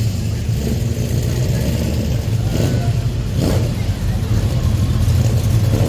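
Classic car engine running steadily with a low rumble.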